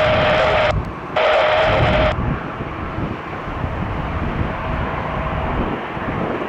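Boeing 787-9 jet engines on departure: a steady jet noise with a whining tone, which drops sharply about two seconds in to a quieter rumble, with a brief dip just before.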